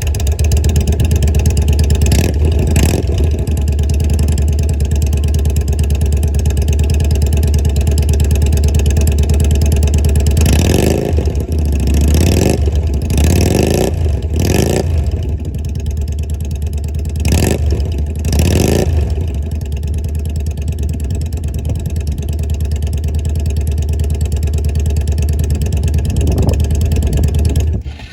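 Yamaha DragStar 250's air-cooled V-twin idling through its exhaust, blipped up several times in quick succession about a third of the way in, then settling back to a steady idle.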